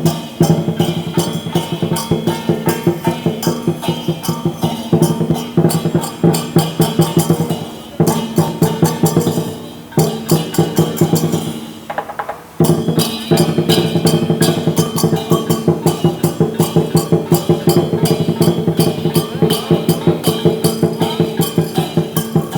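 Chinese dragon dance percussion band, with a large drum and crashing cymbals, beating a fast, steady rhythm. There are a few short breaks partway through.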